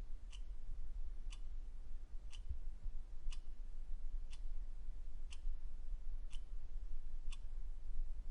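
A clock ticking steadily once a second, sharp, even ticks over a low, steady hum.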